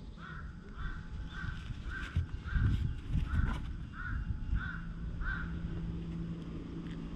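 A bird calling about ten times in an evenly spaced series, roughly two calls a second, stopping a little past the halfway point. Low rumbling thumps, the loudest sound here, come about halfway through.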